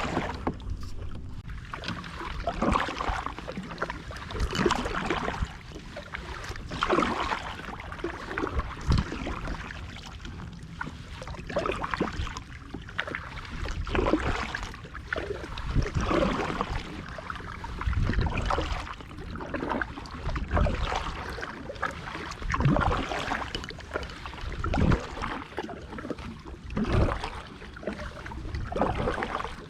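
Kayak paddle strokes splashing through seawater in a steady rhythm, about one every two seconds, over a constant wash of water.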